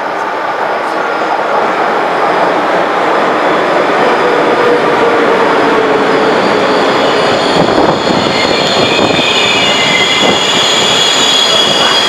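An electric-hauled express passenger train pulls in along the platform. The steady rolling noise of its coaches' wheels on the rails grows louder over the first few seconds. High squealing tones from the wheels join about halfway through as the train slows to stop.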